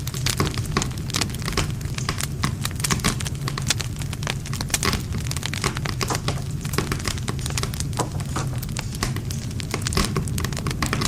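Wood campfire crackling, with frequent irregular pops and snaps of burning wood over a steady low rumble of the flames.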